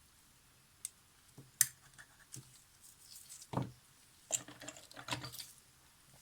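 Small sharp clicks and taps of tools and small camera parts being handled, with a duller knock about three and a half seconds in and a quick run of scratchy ticks after it.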